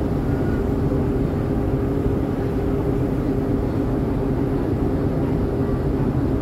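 Steady low drone of the passenger ship KM Ciremai under way: its engines and machinery humming evenly, with a rushing noise beneath and no change throughout.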